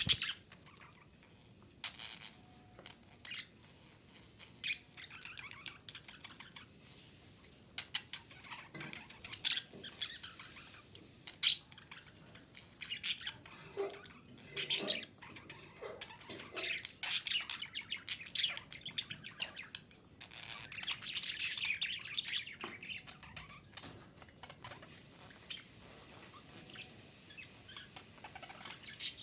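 Female budgerigar chirping and chattering in short scattered calls, with a denser run of quick warbling chatter midway through.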